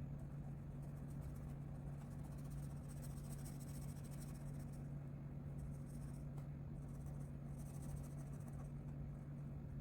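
Colouring strokes scratching on paper in short spells, with a steady low electrical hum underneath.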